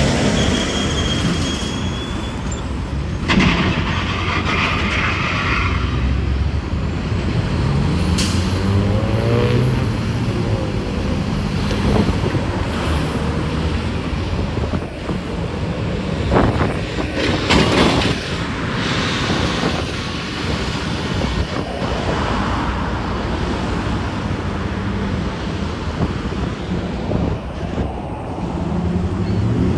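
Expressway traffic going by, heavy trucks among the cars, with steady engine and tyre noise. A few brief louder surges come around 3 seconds in and again after about 17 seconds.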